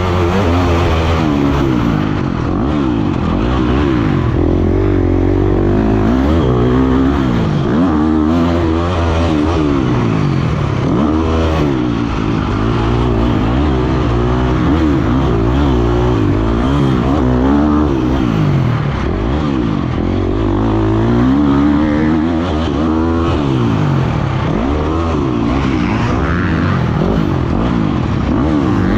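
Motocross dirt bike engine, heard from an onboard camera, revving up and falling back again and again as the bike is ridden around a track.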